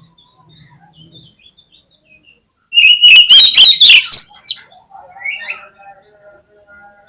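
Oriental magpie-robin (kacer) singing: scattered soft chirps, then about three seconds in a loud two-second burst of rapid harsh notes and high whistles, followed by quieter notes.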